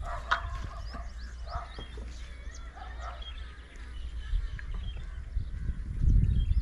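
Scattered bird calls and short chirps over a steady low rumble, which swells loudly near the end.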